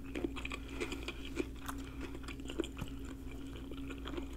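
Close-miked chewing of a mouthful of shrimp and bell-pepper stir fry with rice: soft, wet mouth sounds and many small irregular clicks, over a faint steady hum.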